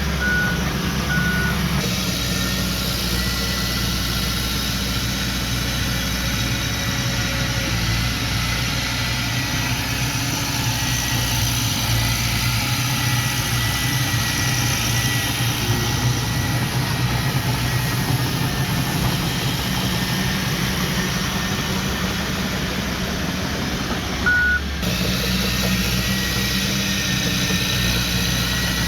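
Diesel engine of heavy earthmoving machinery running steadily, with three short reversing-alarm beeps near the start and one more about 24 seconds in.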